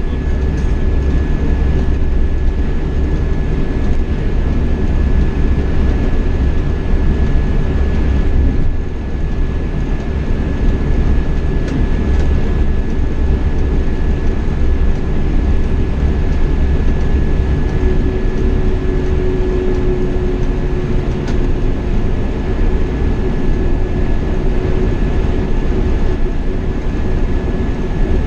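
Marcopolo Paradiso 1800 DD double-decker coach on a Scania K420 chassis under way, heard from the driver's position: a steady low engine and road rumble with a thin constant high whine, dipping briefly about nine seconds in.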